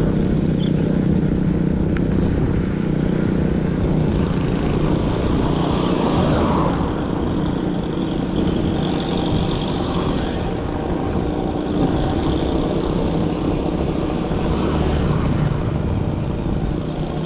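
Bicycle tyres rolling on a road, a steady rumble with a few brief swells of louder, brighter noise.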